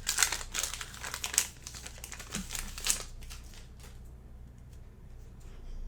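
Crinkling of a trading-card pack's foil wrapper being torn open and handled, busy for about three seconds and then much quieter.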